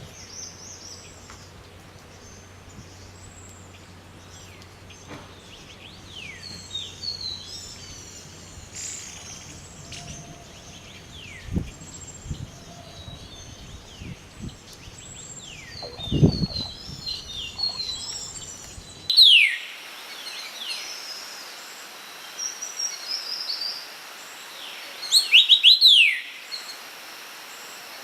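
Songbirds calling: many short chirps and quick falling whistled notes, with a couple of low thumps around the middle. The background changes abruptly about two-thirds of the way in, and the loudest falling whistles come after that point.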